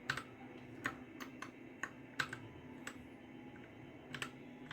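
Keys of a Royal Kludge RK60 mechanical keyboard pressed one at a time, about eight separate clicks at irregular spacing, as key combinations are tried to change the backlight speed and effect.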